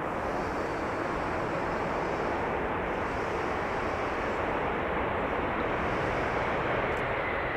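Aircraft engine noise passing the airfield: a steady rushing sound that grows slightly louder toward the end.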